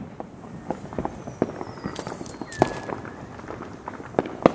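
Fireworks and firecrackers going off: a string of irregular sharp pops and bangs, with a thin falling whistle for about a second and a half before a louder bang near the middle, and another loud bang near the end.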